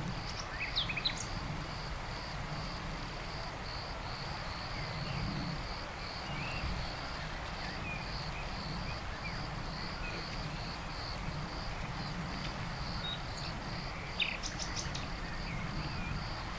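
Insects chirping in a steady pulsing rhythm, about two to three pulses a second, over a low background hiss of outdoor noise. Scattered short bird chirps run through it, with a brief flurry of bird calls near the end.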